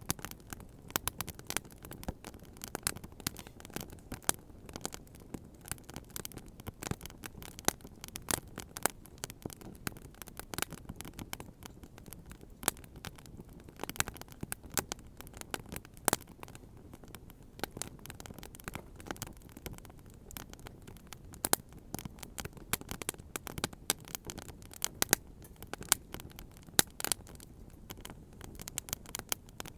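Wood bonfire crackling: many irregular sharp pops and snaps, several a second with a few louder ones, over a steady low rush.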